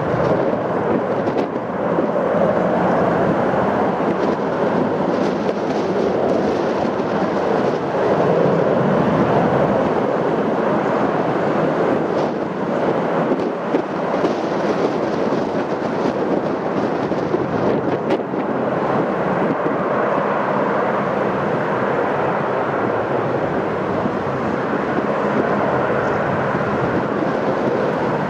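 Jet airliner engine noise, a steady loud rushing sound, heard in windy weather.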